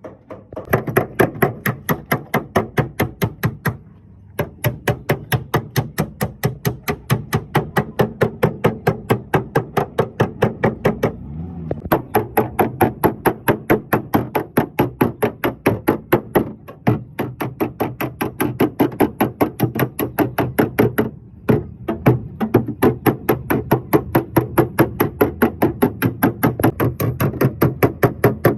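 Steady rapid hammer taps on a Toyota Corolla's sheet-metal body panel, about four a second with a few brief pauses: a dent being tapped down in paintless dent repair.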